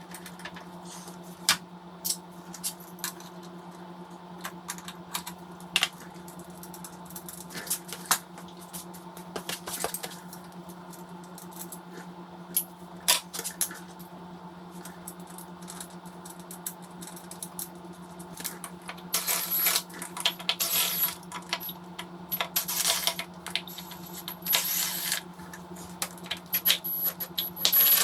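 Metal hand tools and small metal parts clinking and ticking irregularly, with busier clusters of clinks in the last third, over a steady low electrical hum.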